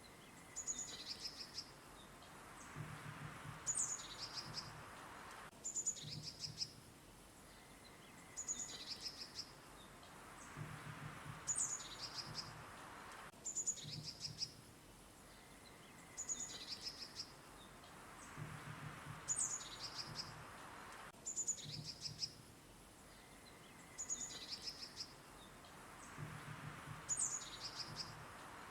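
Small songbirds chirping and calling in short, high, quick notes in clusters, with a faint background hiss. The same few seconds of birdsong repeat about every eight seconds, as a loop.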